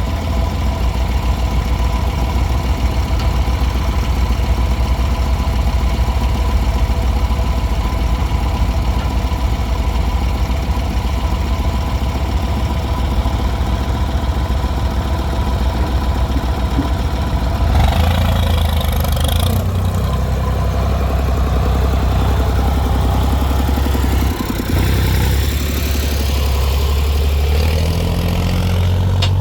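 Heavy diesel machinery running steadily, a deep engine rumble with a faint steady whine over it. About 18 s in there is a brief rush of hissy noise, and around 25 s the engine note drops for a moment, then changes pitch as the load shifts.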